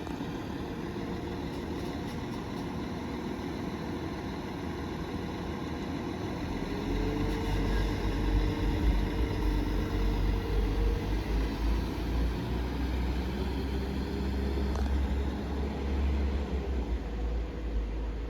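Class 197 diesel multiple unit's engines throttling up as the train pulls away, a rising engine tone about seven seconds in and the low rumble at its loudest a few seconds later.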